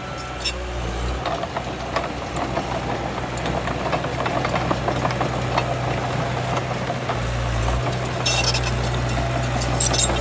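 Diesel engine of heavy earthmoving machinery running steadily, with rattling and clanking over it and a brief sharp rattle about eight seconds in.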